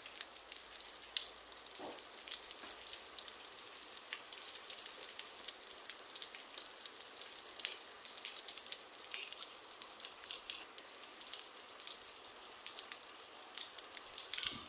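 Rain falling: a steady hiss with the ticks of individual drops striking a surface.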